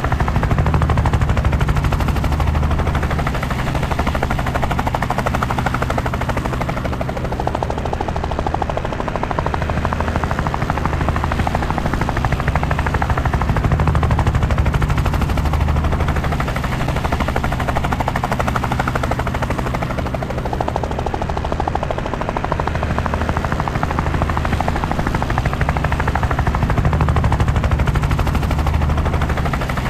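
Helicopter in flight: steady rotor and engine noise with a fast, even rotor chop, slowly swelling and easing every several seconds.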